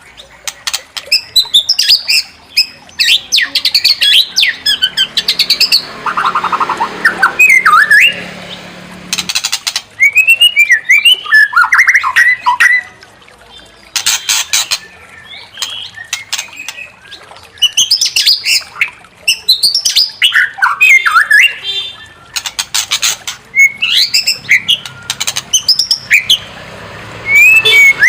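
White-rumped shama (murai batu) singing hard: loud bursts of gliding whistles mixed with rapid harsh rattling chatter, broken by short pauses.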